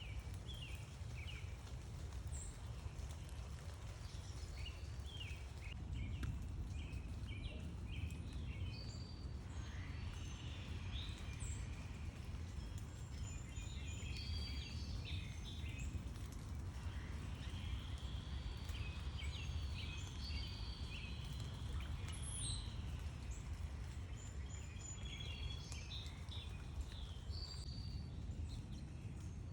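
Several backyard songbirds chirping and calling, with many short chirps and a few longer whistled phrases, over a steady low rumble.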